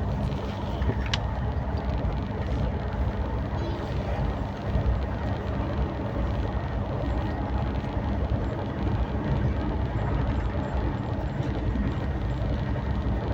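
Passenger train running: a steady, loud rumble of wheels and carriage, with a faint hum and one brief tick about a second in.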